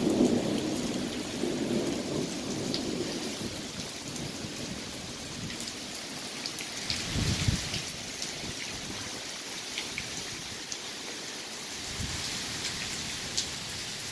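Heavy rain falling steadily on trees, grass and pavement, with sharp ticks of close drops. A low rumble of thunder dies away over the first few seconds, and a brief low thump comes about halfway through.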